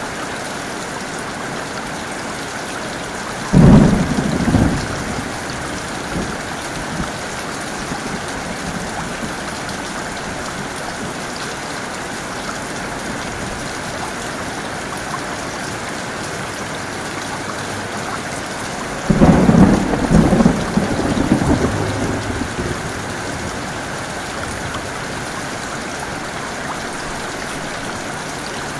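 Heavy rain falling steadily, with two thunderclaps: a short, sharp one about four seconds in, and a longer one with several cracks, lasting about three seconds, a little before twenty seconds in.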